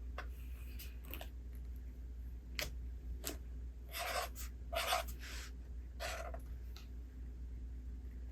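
Quiet handling of a paper book: a few light taps, then three short paper rustles about a second apart, like pages being turned.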